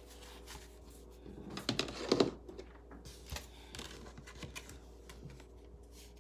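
Tarot cards being shuffled and handled: a quick flurry of flicking cards about one and a half to two seconds in, then scattered light snaps and taps as cards are drawn from the deck.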